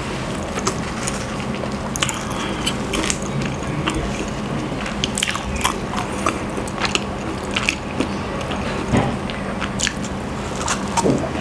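Close-miked chewing and biting of a soft chocolate-filled pandesal bread roll, with many small wet mouth clicks throughout.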